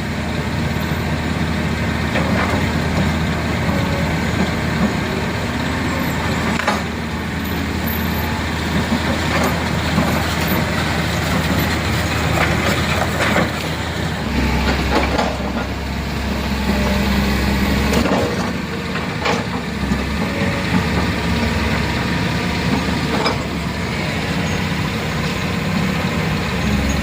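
Heavy truck engine running steadily with a low drone that grows stronger for a few seconds about halfway through, with a few scattered knocks.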